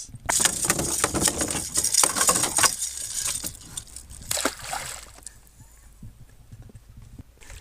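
Water splashing and sloshing in two bursts, a long one starting just after the beginning and a shorter one about four and a half seconds in: a hooked northern pike thrashing at the surface, still lively.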